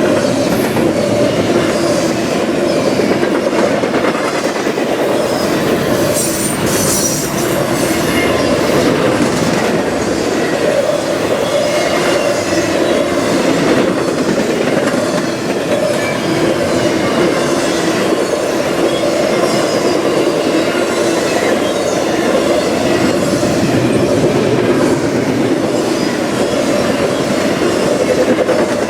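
A train's cars rolling past on the rails: a steady loud rumble with the repeated clack of wheels over rail joints.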